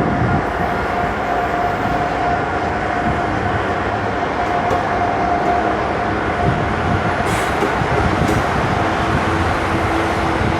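Freight train hauled by GE Dash 8 and Dash 9 diesel-electric locomotives running past, a steady loud rumble of engines and wheels on the rails, with a steady whine through the first half.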